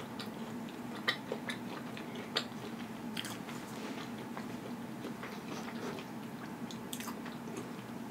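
Close-miked chewing of a mouthful of pizza, with scattered wet mouth clicks and smacks, the sharpest about a second in and about two and a half seconds in. A faint steady hum runs underneath.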